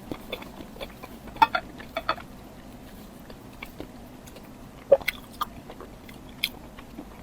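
Close-miked eating: a person chewing, with sharp wet mouth clicks and bites scattered irregularly, the loudest about a second and a half in and again just before the five-second mark.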